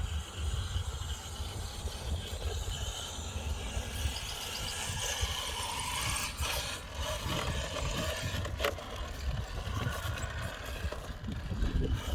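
Radio-controlled truck running over rough ground, its motor and drivetrain whirring with rattles and two sharp knocks, over a steady low rumble.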